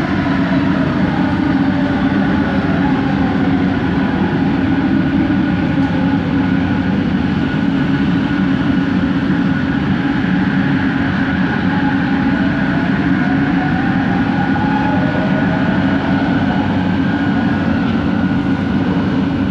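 Bombardier ART Mark II train running on the Kelana Jaya Line, its original motors whining over a steady running rumble. The whine's several tones glide down over the first few seconds, then climb again about two-thirds of the way through.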